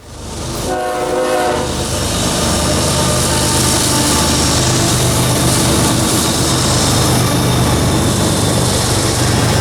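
A diesel locomotive's horn sounds one short blast about a second in, then the train goes by with a loud, steady rumble of engine and rolling wheels.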